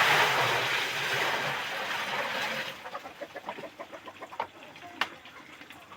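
Kampung chickens clucking. A loud, even rushing noise fills the first three seconds, then scattered clucks and short clicks, with one sharp click about five seconds in.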